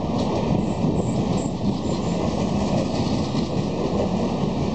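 Passenger coaches of an express train rolling past along the track: a steady rumble of wheels on rails with a light clatter.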